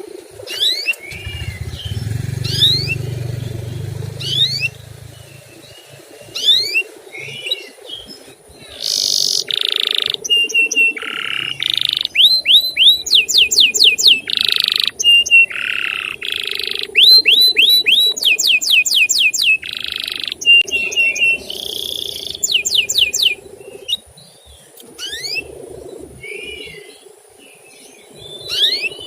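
Canary singing: spaced rising chirps, then a loud run of fast rising-note trills alternating with harsh buzzy notes, easing back to scattered chirps near the end. A low rumble lies under the first few seconds.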